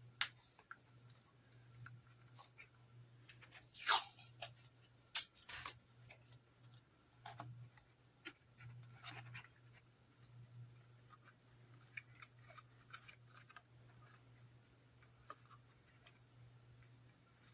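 Small clicks, scratches and rustles of hands working plastic model parts, with a louder crackle about four seconds in and a sharp click about a second later.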